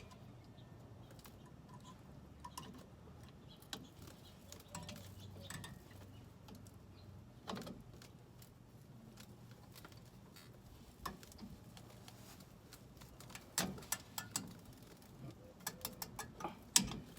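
Scattered light clicks and metallic taps from small parts and tools being handled during brake work, over a faint low hum. A cluster of sharper knocks comes near the end.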